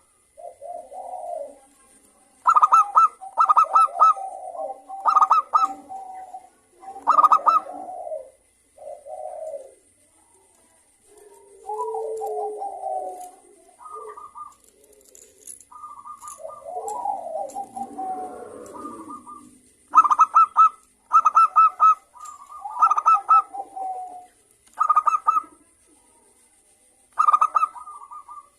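Zebra doves (local perkutut) cooing and answering one another. There are clusters of quick, clipped notes, and softer, lower rolling coos in between.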